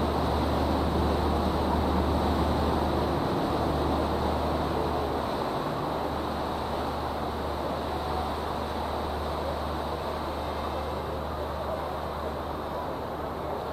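Sightseeing riverboat's engine running with a steady low rumble under a constant wash of water and wind noise, heard from on board; it eases a little in level over the stretch.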